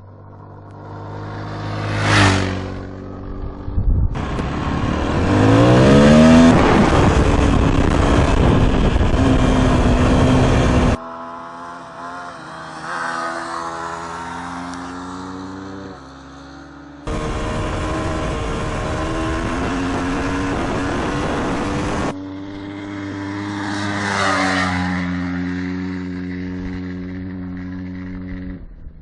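Dirt bike engines running and revving on gravel roads, rising in pitch as they accelerate, mixed with loud wind and road rumble. The sound changes abruptly several times where riding clips are cut together.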